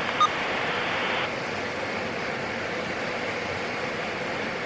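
Steady in-flight drone of a PAC 750XL single-engine turboprop, heard through the cockpit audio feed. There is a brief beep just after the start, and a radio hiss that cuts off about a second in as the previous transmission ends.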